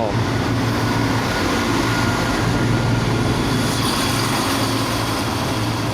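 Class 170 Turbostar diesel multiple unit pulling away from the platform, its underfloor diesel engines working under power with a steady low drone.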